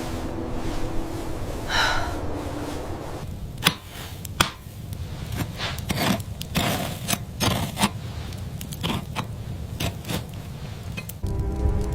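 Background music fades out over the first three seconds, giving way to irregular sharp knocks and scrapes, a few a second. The music comes back near the end.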